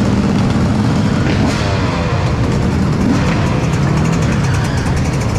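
Dirt bike engines running and revving.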